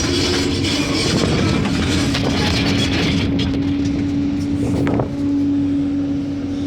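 Excavator running, its engine giving a steady hum, with rattling and clanking over the first three seconds and a brief rising squeal about five seconds in.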